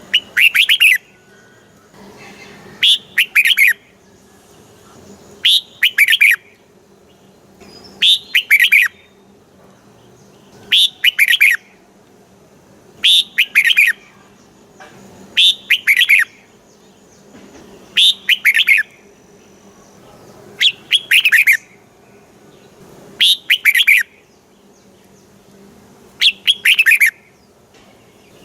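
Red-whiskered bulbul singing its short song phrase, a quick run of whistled notes about a second long, repeated about every two and a half seconds.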